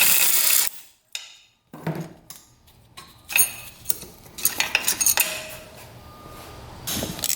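A short burst from a power driver spinning out a bolt, then metal clinks and rattles as long steel engine bolts are drawn out of a motorcycle engine and handled.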